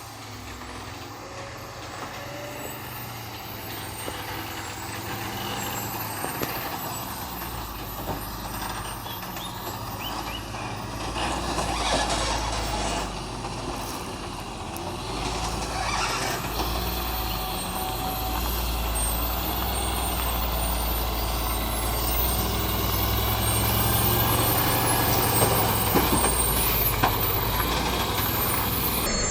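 Heavy truck engine running steadily under load, growing louder through the second half, with a few short air-brake hisses in the middle.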